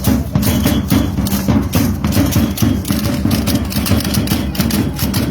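Drums and percussion of a traditional Mexican danza playing a fast, steady beat, with dense repeated strikes.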